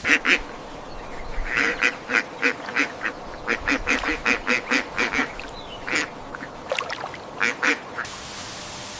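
A bird giving a series of short, harsh calls. There are two at the start, then a fast run of about four calls a second, then a few scattered calls near the end.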